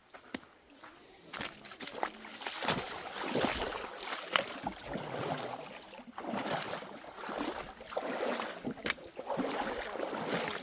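Footsteps through wet mud and undergrowth on a jungle trail, about one step a second, each a noisy squelch and rustle with a few sharp clicks.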